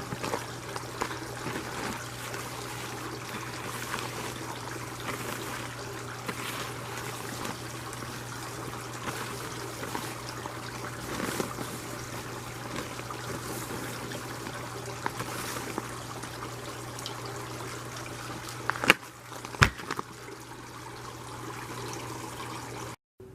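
Running tap water pouring steadily over freshly harvested mulberries being rinsed in a bowl, with a couple of sharp knocks near the end.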